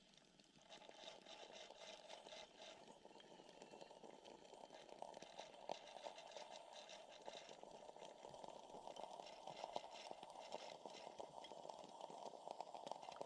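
Shardor steam espresso machine working under pressure: faint, dense crackling and sputtering of water boiling inside it, growing slightly louder.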